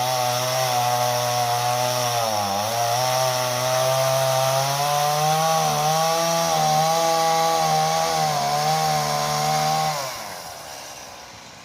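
Chainsaw running under load, cutting through a pine trunk in the felling cut. Its note dips briefly about two and a half seconds in, then holds steady, and near the end the saw winds down and falls quiet.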